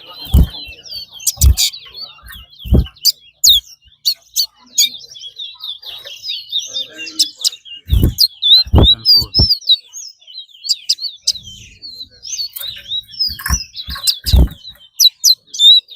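Caged songbirds in a singing contest, chirping and trilling quickly and without pause. Short low thuds break in several times.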